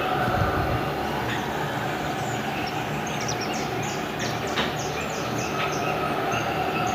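A steady droning hum with several held tones, the kind posted as the unexplained 'strange sound in the sky'. A run of short high squeaks comes about three to five seconds in.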